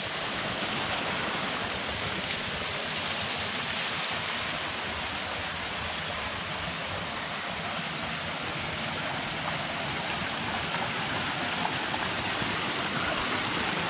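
Steady rushing of water from a small waterfall.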